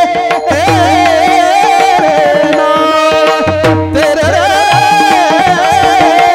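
A bhajan singer holds a long, wavering, ornamented note over a steady drone, with tabla strokes underneath, including low gliding bass-drum strokes.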